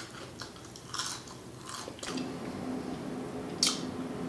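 Close-up mouth sounds of a person biting and chewing crispy fried fast food, with several sharp crunches, the loudest near the end.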